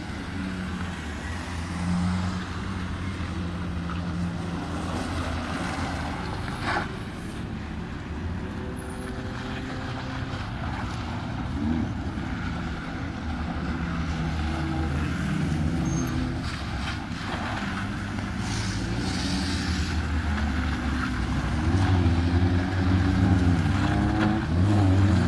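Racing car engines running and passing on a circuit, their pitch rising and falling as they rev and shift gear. The loudest stretch comes near the end.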